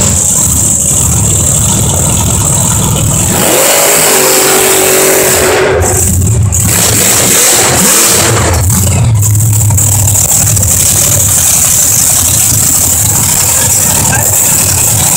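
Loud engine of a big modified off-road truck running and revving, with a rising and falling pitch about four seconds in over a steady low rumble.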